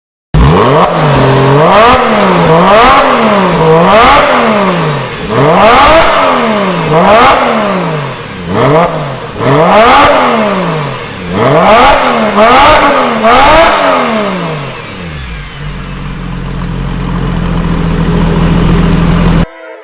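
Porsche 911 Carrera (996) flat-six breathing through a full aftermarket exhaust system, revved in quick blips about once a second, each rising and falling. Near the end it settles to a steady idle, then cuts off suddenly.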